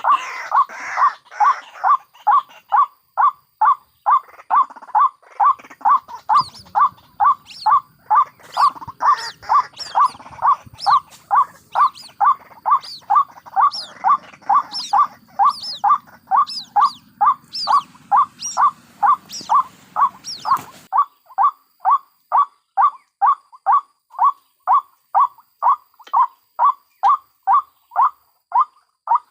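White-breasted waterhen (ruak-ruak) calling: one short note repeated steadily about twice a second. From about 6 s to 21 s, higher, thinner call notes join in over a faint background hiss, and these cut off abruptly, leaving only the repeated note.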